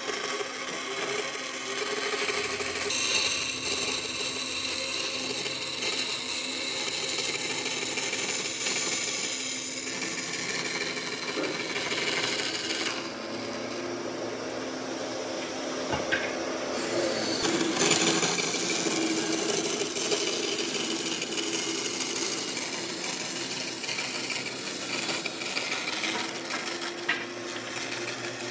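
A power tool working wood, running steadily with a high hiss and metallic ringing; it drops quieter for a few seconds midway, then picks up again.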